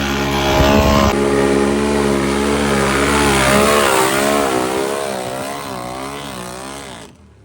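ATV engine held wide open, racing through a water-filled mud hole. Its pitch starts steady, then wavers up and down while it grows fainter as the machine moves away, and it cuts off suddenly near the end.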